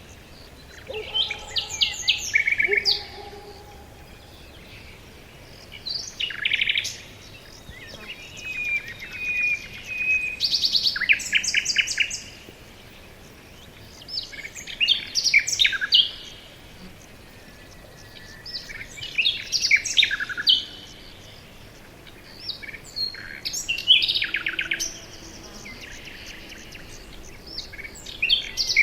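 Forest songbirds singing: a short phrase of rapid, high chirps and trills comes every four or five seconds, with quieter pauses between.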